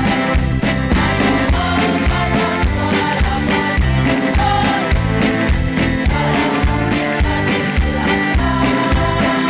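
Choir music: singing over a keyboard accompaniment with a steady beat.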